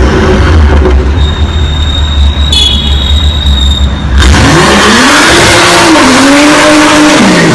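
A supercar's engine running with a deep, loud rumble at low revs, then, about four seconds in, revving up hard, dropping back, and climbing and falling once more near the end.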